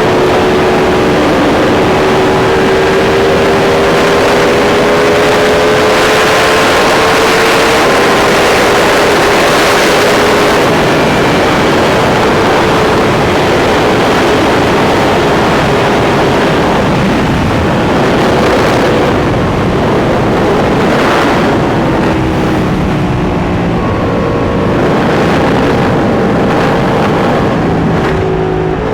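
Sport motorcycle engine running at highway cruising speed under a heavy rush of wind noise, its pitch holding mostly steady and dipping briefly about two-thirds of the way through.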